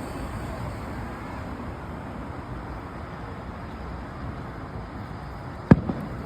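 A steady outdoor rumble, then about five and a half seconds in a single sharp firework bang, with one or two smaller pops right after it.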